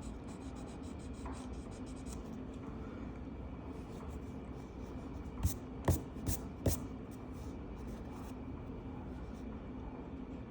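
Colouring strokes rubbing across a paper page, with four sharp clicks or taps close together about halfway through.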